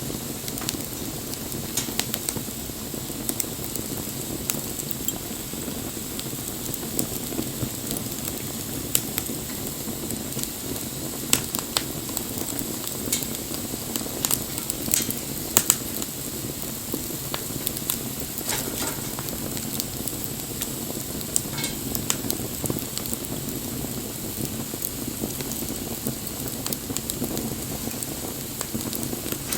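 Wood bonfire burning: a steady low rush of flame with irregular crackles and pops, the loudest few about eleven and fifteen seconds in.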